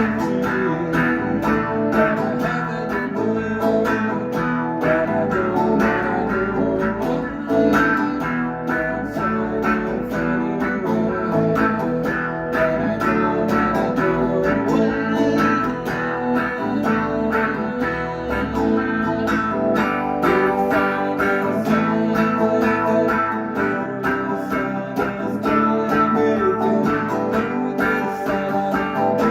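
Guitar music: a steady run of plucked and strummed guitar notes.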